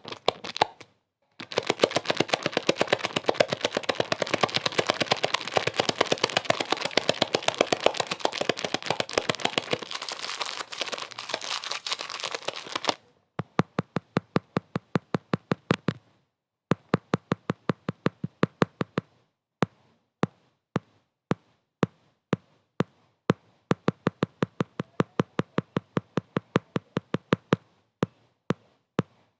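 Rapid sharp clicks or taps, dense over a steady hiss for about eleven seconds, then the hiss stops and the clicks go on as a sparser, even series of about five a second, broken by short pauses.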